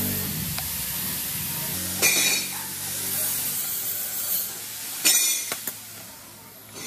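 Screwdriver driving screws into a chainsaw's housing, with small clicks and handling noise and two short rasping scrapes about two and five seconds in.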